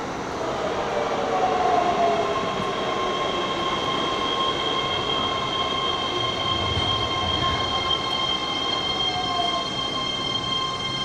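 Keihan 8000 series electric train running, with a steady high ringing squeal from the wheels and short falling whines about a second in and again near the end.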